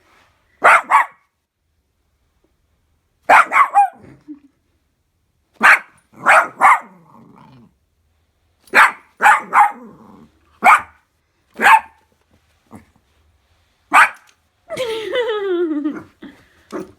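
Cavapoo puppy barking in alarm at a dehumidifier that frightens him: sharp, loud barks in bursts of one to three with short pauses between, and a longer, falling cry near the end.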